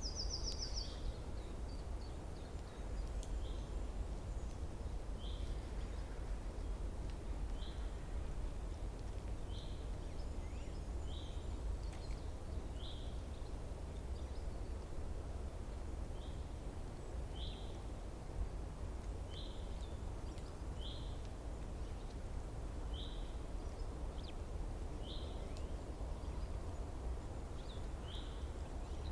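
A small songbird repeating a single short, high call note every second or two, about fifteen times, with one higher, rattling call right at the start, over a steady low outdoor rumble.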